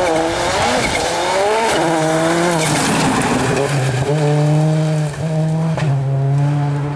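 Rally car engine at high revs, the pitch swinging up and down for the first couple of seconds, then held steady with two brief breaks near the end, as at gear changes or lifts off the throttle.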